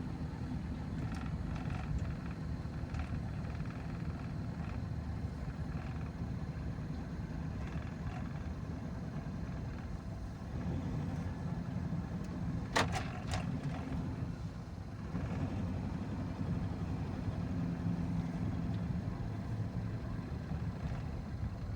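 Steady low rumble of a motor vehicle running, with a few sharp clicks about 13 seconds in.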